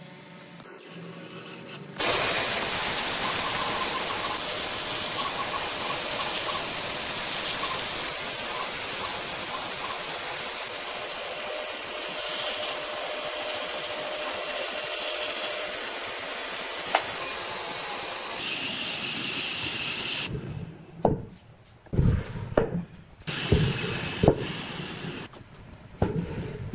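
A woodworking power tool running steadily on wood with a high whine, stopping about twenty seconds in; then a run of irregular sharp knocks on wood.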